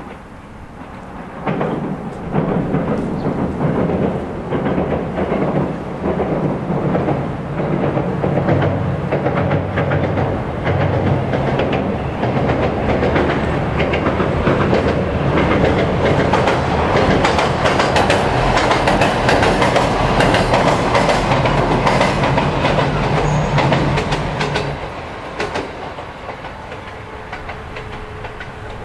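JR E127 series two-car electric train crossing a steel girder railway bridge, its wheels clacking over the rail joints with a heavy rumble. The rumble starts about two seconds in and falls away a few seconds before the end.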